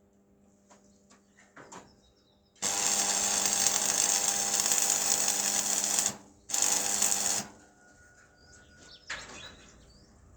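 A power tool runs loud for about three and a half seconds, stops briefly, then runs again for about a second. Light knocks and handling noises come before and after.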